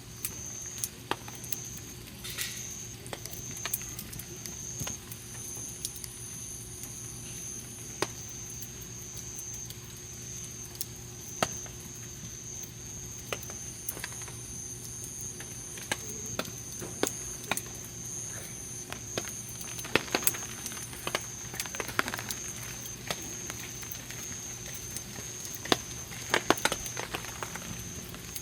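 Wood campfire crackling, with irregular sharp pops and snaps from the burning wood and a few louder clusters of snaps in the second half.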